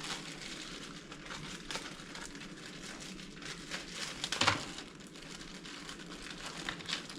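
Crinkling and rustling of packaging being handled, with many small crackles and a louder rustle about four and a half seconds in.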